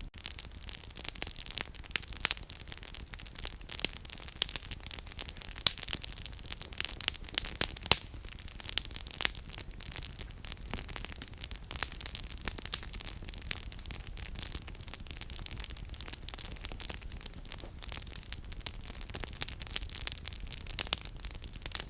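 Campfire firewood crackling and popping steadily, with a few sharper pops, over a low steady rumble.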